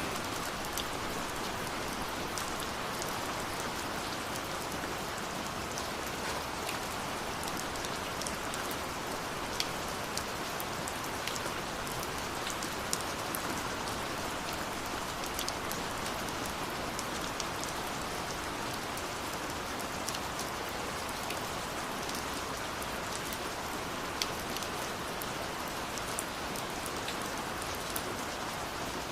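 Steady rush of a waterfall with scattered small sharp crackles of a wood fire mixed in.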